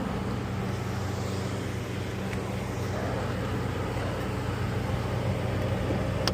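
Rooftop HVAC equipment running with a steady low mechanical hum, and a sharp click near the end.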